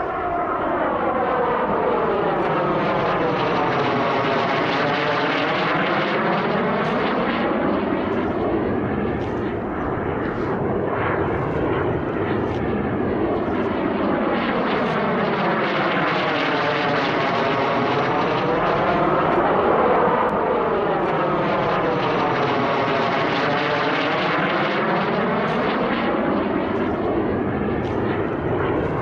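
Turbine engines of a radio-controlled scale model jet running steadily in flight. The sound sweeps as the model passes by several times and is loudest about twenty seconds in.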